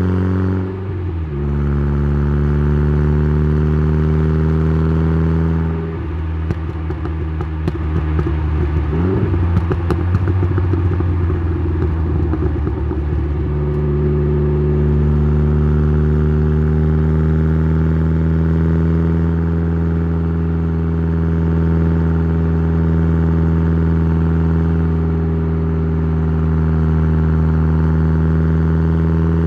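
Tuned Saab 9-3's turbocharged B204 2.0-litre four-cylinder heard at the exhaust, droning at a steady engine speed while cruising. The pitch dips briefly about a second in. From about six to fourteen seconds the sound turns rough with crackling and rattling, then the steady drone returns and rises slightly near the end.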